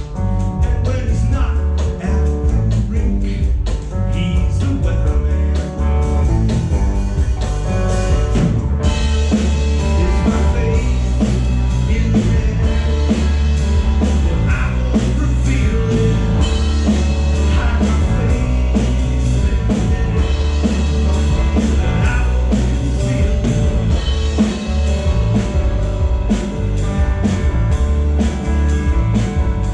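Live rock band playing a blues-rock song with drum kit and electric guitar, with some singing; the sound turns brighter and fuller about nine seconds in.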